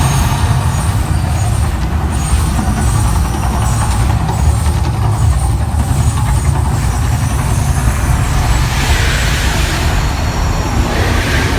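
Loud, steady low rumble of the Las Vegas Strip volcano show erupting.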